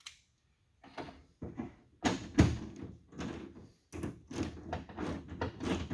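A wrench clanking and knocking inside a car door's metal shell while the door handle's mounting nuts are tightened. The knocks are irregular, starting about a second in and coming thick from about two seconds, with one sharp clank the loudest.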